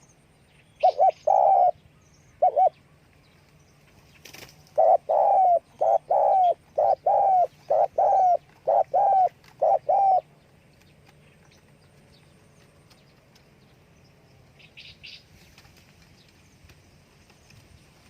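Spotted dove cooing: a few short coos in the first three seconds, then a rhythmic run of about ten coos from about five to ten seconds in. A faint steady low hum runs underneath.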